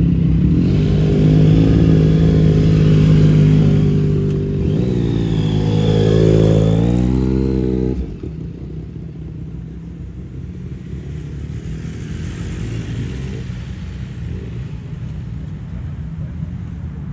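A vehicle engine running loud and close at a steady pitch, then revving up with a rising pitch about five seconds in. The sound cuts off abruptly about eight seconds in, giving way to a quieter low engine rumble.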